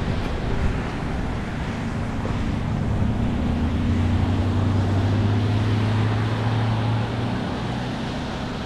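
Wind rushing over an action camera's microphone while riding a bicycle, with a low steady hum underneath from about two to seven seconds in.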